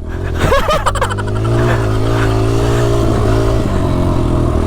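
Motocross dirt bike engine running under load as it is ridden around the track, with a quick rise and fall in pitch just after the start, then a fairly steady note with a short dip about three and a half seconds in.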